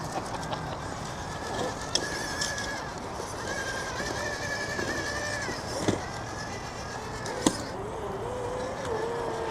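Scale RC trail truck's small electric motor and gearing whining in spells as it drives, with a few sharp knocks from the rig on the terrain.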